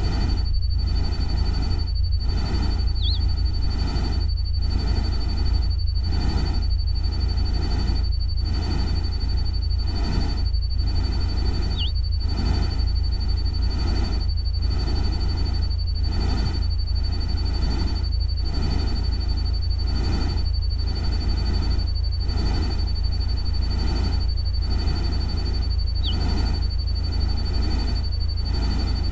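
Electronically produced ambient soundscape: a steady low rumble under a soft pulse about once a second, with a thin steady high tone. Three short, brief chirps come through about three seconds in, near the middle and near the end.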